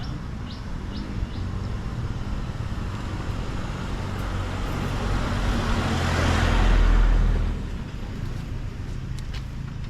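A motor vehicle passing close by on the road, its noise building over a few seconds, peaking about two-thirds of the way in, then fading away over a steady low rumble.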